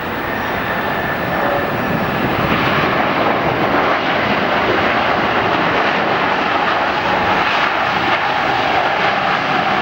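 Jet airliner's engines, a loud, steady rushing noise that grows louder over the first few seconds and then holds, with a faint whine that changes pitch partway through.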